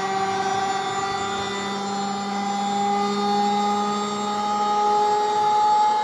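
Siemens front-load washing machine spinning, its drum motor giving a steady whine that rises slightly in pitch as the spin speeds up.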